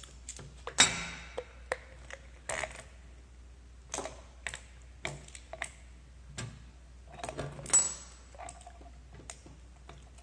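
Irregular metal clicks and clinks of a motorcycle brake caliper and its piston being handled as the piston is worked back into its bore. The loudest knocks come about a second in and about three quarters through, the second with a brief ring.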